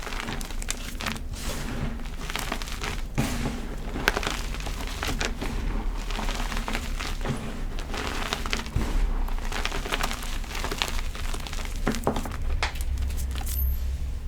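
Extra crispy gym chalk being crushed by hand, crunching and crumbling in a continuous run of irregular crackles and snaps.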